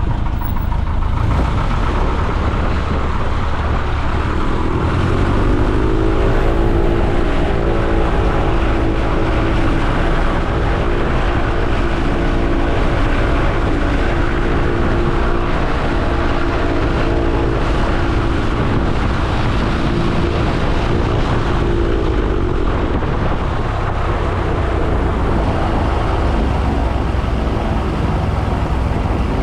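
Piper J-3 Cub's engine and propeller droning steadily in flight, heard from inside the cockpit with wind noise. The engine's pitched note comes up clearer a few seconds in, fades about twenty seconds in and returns near the end.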